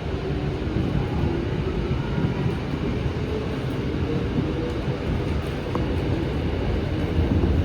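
Light rail train heard from inside the car as it pulls away and runs: a steady rumble with a faint whine that slowly rises in pitch as it gathers speed.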